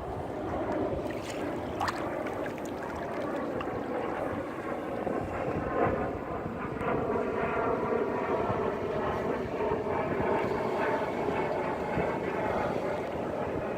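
An engine drone that comes in about five seconds in and holds steady to the end, over an even background hiss.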